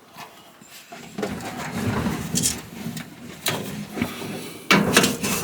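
Rubbing, scraping and rustling of hands working inside an opened dryer cabinet, clearing debris out of the blower housing, with a louder clatter of knocks near the end.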